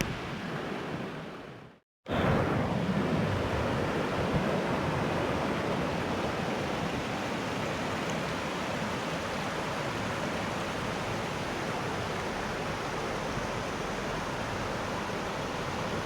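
Steady rush of the Putna river's flowing water. About two seconds in the sound fades to silence for a moment, then the rush comes back louder and stays steady.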